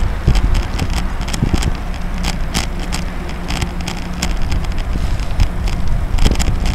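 Riding a cross bike on the road: wind buffeting the microphone over a low road rumble, with irregular rattling clicks as the bike goes over bumps.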